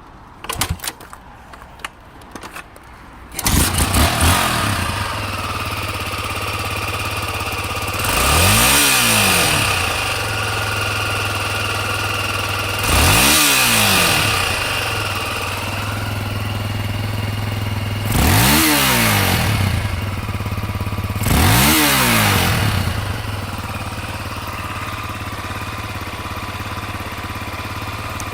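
Honda XLR250R Baja's single-cylinder four-stroke engine starting after a few knocks, then idling steadily. It is revved four times with short throttle blips that rise and fall in pitch, settling back to idle after each one.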